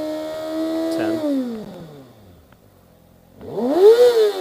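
2018 Kawasaki ZX-6R's inline-four engine through its stock exhaust, held at high revs and then dropping back toward idle. After a quiet moment, a quick sharp rev up and back down peaks about four seconds in.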